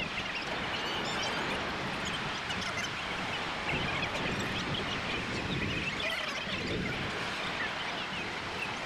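Ocean surf washing in steadily, with wind on the microphone.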